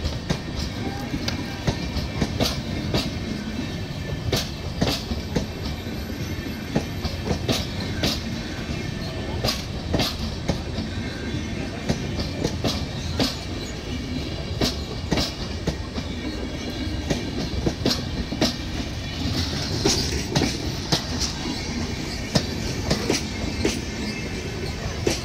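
Indian Railways passenger coaches rolling slowly past: a steady low rumble of the wheels, broken by irregular sharp clicks and clacks as they cross the rail joints. A brief higher hiss rises about three quarters of the way through.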